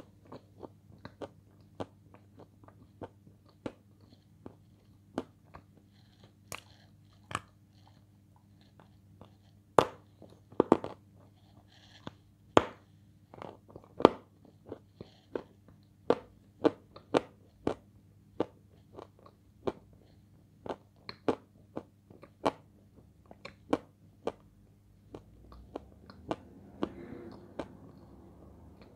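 Close-up crunchy chewing of food, a person's mouth biting through something crisp about once or twice a second, the loudest crunches in the middle.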